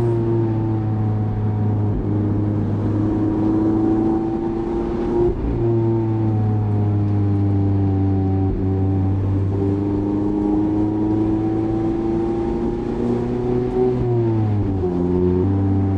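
Mazda MX-5's 1.5-litre four-cylinder engine running steadily under the cabin at a relaxed cruise, its note slowly rising and sagging with the road. There is a brief break in the note about five seconds in, and near the end the revs dip and then pick up again.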